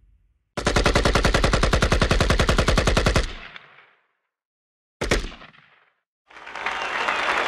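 Sound-effect burst of rapid automatic gunfire, evenly spaced shots lasting about two and a half seconds, then a single sharp hit that dies away. A noisy crowd-like wash, like applause, begins near the end.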